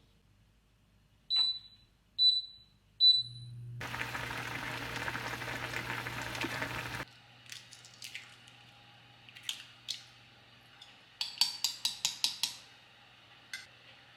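A kitchen appliance: three short high beeps about a second apart, then a low hum starts and a loud whirring noise runs for about three seconds before stopping abruptly, while the hum carries on. Near the end comes a quick run of about seven clicks.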